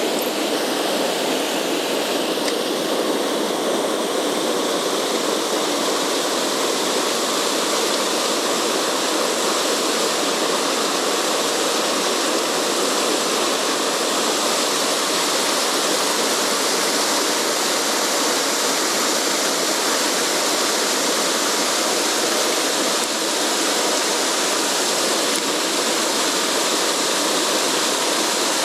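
Mountain stream water rushing steadily, an even unbroken rush with no changes.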